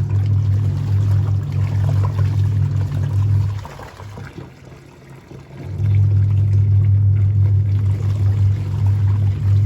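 A steady low machine hum that cuts out about three and a half seconds in and starts again about two seconds later, with a fainter sound of running or pouring water over it.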